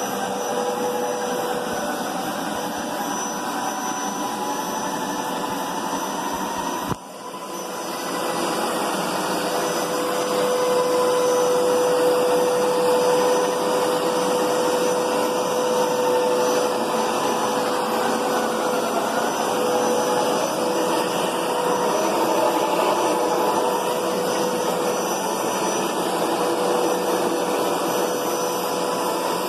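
Hoover Power Scrub Deluxe carpet cleaner (FH50150) running, a steady motor hum with a held whine. About seven seconds in the sound drops out sharply, then builds back up over a couple of seconds and runs on.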